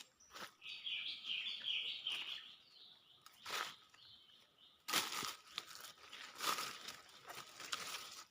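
A bird calls with a quick run of repeated, slightly falling notes about a second in. Later, dry forest litter crunches and rustles in short bursts, mostly in the second half.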